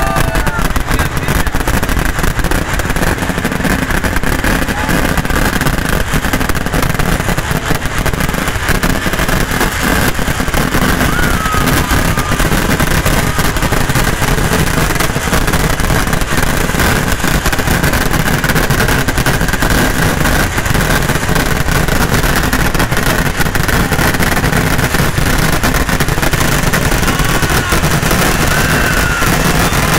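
Kerala temple-festival fireworks barrage (vedikettu) going off non-stop at close range: rapid firework blasts packed so tightly they merge into one steady, loud rumble without a break.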